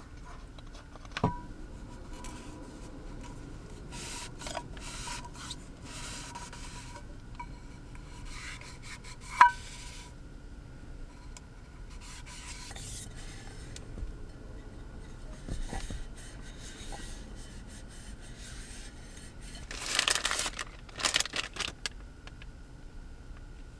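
Close rubbing and scraping handling sounds with scattered small clicks, a sharp click about nine seconds in, and a burst of rustling near the end.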